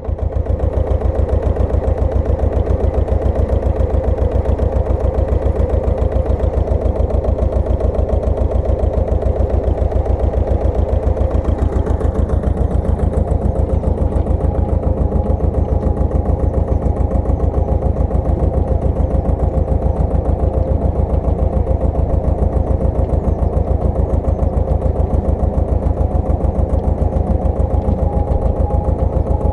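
Pasquali 980 EX two-wheel tractor's engine running steadily with a rapid, even pulse and a steady whine on top, driving a rotovator.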